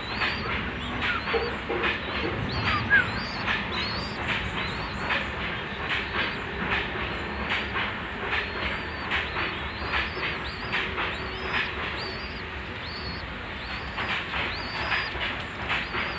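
Pet bird chirping in quick, repeated short high notes, several a second, over steady background noise.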